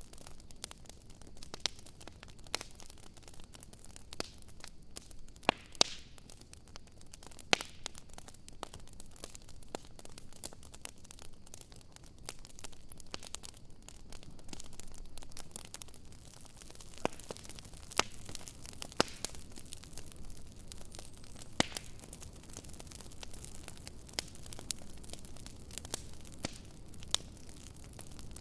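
Wood fire crackling: irregular sharp snaps and pops over a soft steady hiss, with a few louder pops scattered through.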